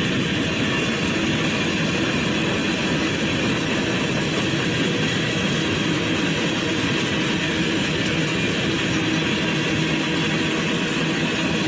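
Freight train's tank cars and covered hoppers rolling past: a steady noise of steel wheels on rail, unbroken throughout.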